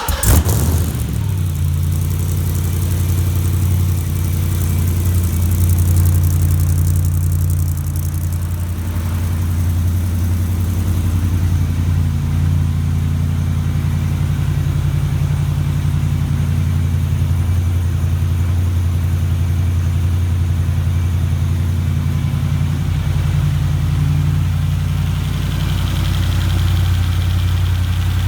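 Supercharged 6.2-litre Hellcat V8 of a drift car catching on its first start, then idling steadily.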